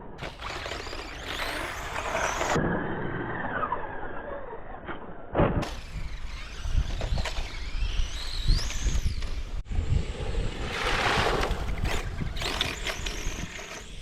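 Electric motors of Schumacher Bosscat RC off-road buggies whining up and down in pitch as the cars accelerate and slow around a dirt track, over a steady low rumble with occasional knocks. The sound changes abruptly several times.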